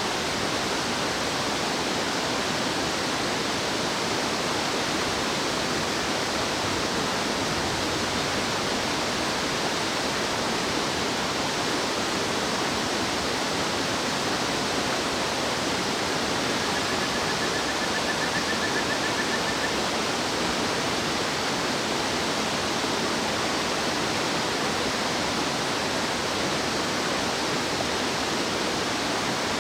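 Steady rush of a fast-flowing mountain stream. A faint, brief trill rises above it about two-thirds of the way through.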